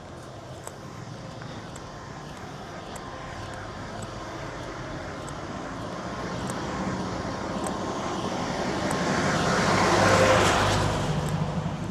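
A motor vehicle approaching and passing close by. Its engine and road noise grow louder over about ten seconds, peak near the end, then fall away quickly.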